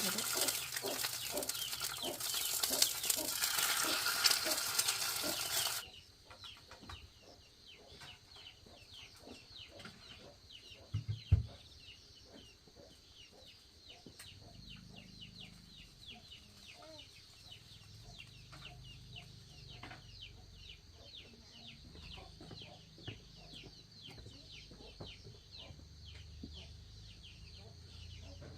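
A loud, even hiss for about the first six seconds that cuts off suddenly. Then chickens cluck quietly with many short, quick calls, and there is a single sharp thump about eleven seconds in.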